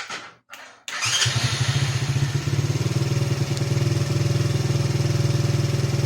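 Small 110cc single-cylinder four-stroke engine of a Chinese kids' ATV being restarted on its electric starter: brief cranking, then it catches about a second in and idles steadily with an even beat, running well on its freshly cleaned carburetor.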